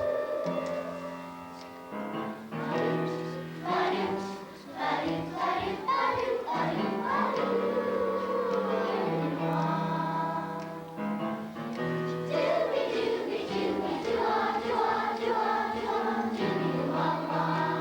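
Children's choir singing a song with a steady instrumental accompaniment of held low notes.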